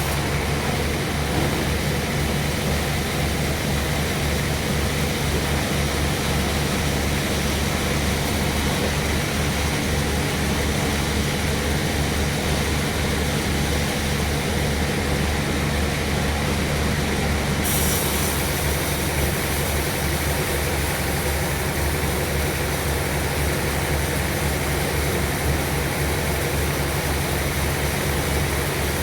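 Sawmill machinery running steadily: a low engine drone with an even pulse. About two-thirds of the way through, a higher hiss joins it.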